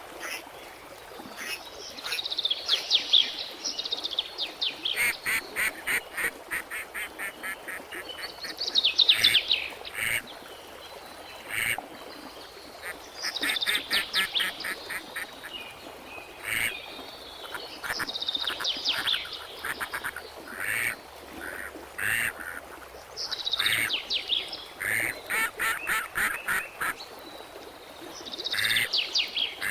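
Birds calling in repeated rapid series of short, high notes. Each series lasts a second or two and comes again every few seconds.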